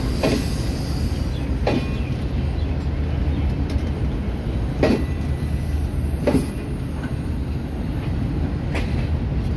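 Pakistan Railways passenger coaches rolling slowly past as the train pulls out, wheels on the rails making a steady low rumble. About five sharp clacks come as the wheels cross rail joints.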